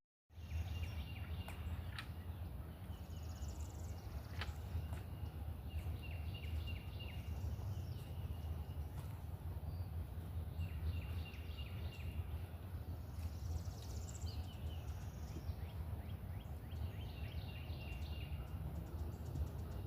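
Outdoor ambience: a steady low rumble, with short rapid chirping trills from birds every couple of seconds and a few faint sharp clicks.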